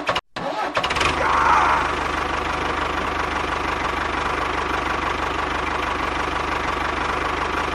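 A small engine running steadily with a fast, even knocking rhythm, after two brief cuts to silence near the start.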